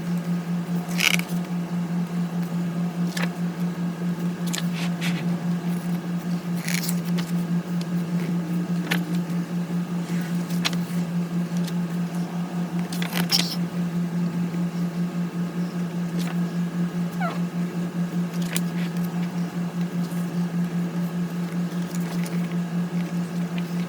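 Steady low hum that pulses evenly throughout, with scattered short clicks and rustles of the pages of a photo book being turned and handled, the biggest about a second in and around the middle.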